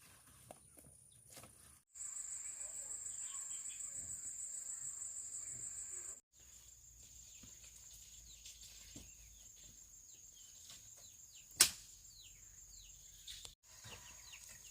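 Steady high-pitched drone of insects, louder for a few seconds and then quieter after abrupt cuts, with scattered short bird chirps. One sharp loud snap comes about three-quarters of the way through.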